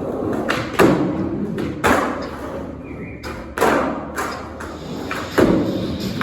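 Skateboard thuds: the board slamming down on the ground and the homemade box four times, with rolling noise in between.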